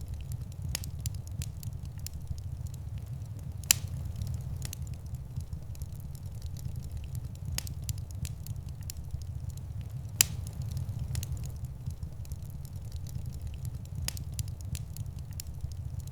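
Wood fire in a fireplace crackling over a steady low rumble, with scattered sharp pops, two of them much louder than the rest.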